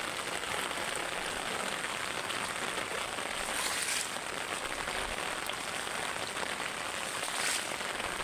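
Steady rain falling, an even hiss of drops on surfaces that briefly swells louder twice, about four seconds in and near the end.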